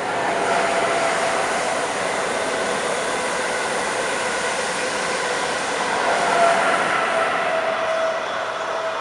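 Amtrak Acela Express high-speed electric trainset running past on a curve: a steady rushing noise with a faint whine held through it, swelling slightly about six seconds in.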